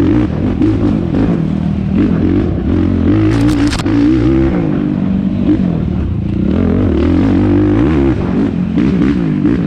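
Yamaha YFZ450R quad's single-cylinder four-stroke engine racing off-road, revving up and down with constant throttle changes. A short burst of clatter comes about three and a half seconds in.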